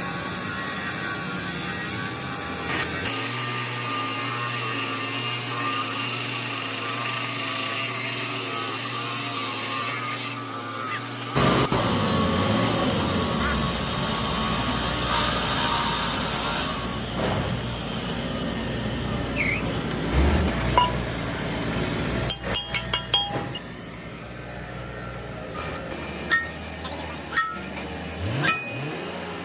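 A power tool running steadily on metal parts, its tone changing about eleven seconds in, then a run of sharp metallic clinks and taps near the end.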